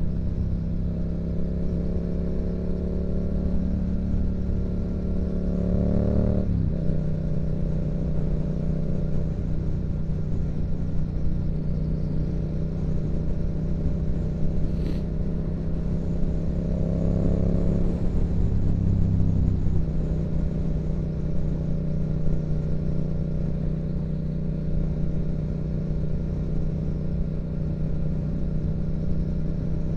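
2016 Yamaha MT-07's 689 cc parallel-twin engine through a Yoshimura exhaust, running under way. The engine note rises and drops sharply about six seconds in, climbs again a little past the middle and eases back, then holds steady.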